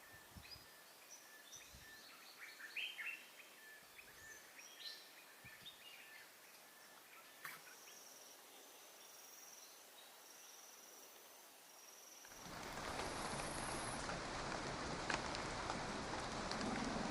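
Tropical forest birds calling in short chirps and repeated notes over a faint insect drone. About twelve seconds in, this cuts abruptly to a louder, steady rushing noise.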